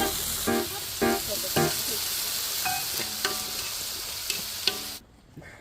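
Food sizzling on a hot tabletop grill, a steady hiss that cuts off abruptly about five seconds in.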